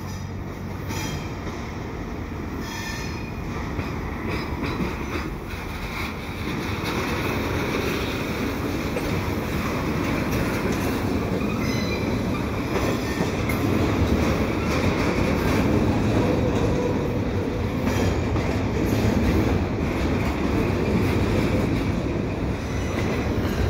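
Double-stack container well cars rolling slowly past as the cut is shoved, steel wheels rumbling on the rails with now and then a faint wheel squeal. The rumble grows louder over the first half as the cars draw near, then holds steady.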